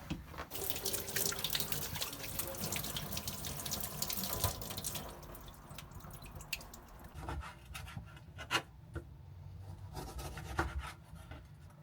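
Water running from a tap as hands are washed under it, then shutting off about five seconds in, followed by a few light clicks and knocks.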